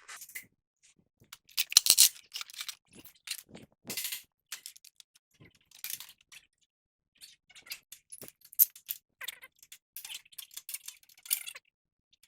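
Metal hand tools clinking, scraping and clicking in irregular bursts as a socket and ratchet wrench are handled on the steering linkage.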